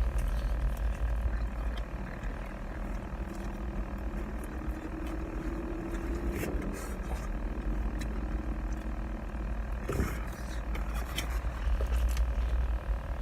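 Steady low rumble with a few sharp clicks and faint, indistinct voices in the background.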